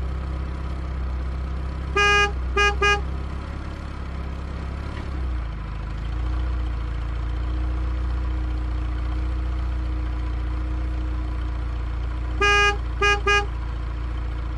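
A vehicle horn sounds three toots, one longer and two short, about two seconds in, and the same three toots near the end. Underneath is a steady low engine hum.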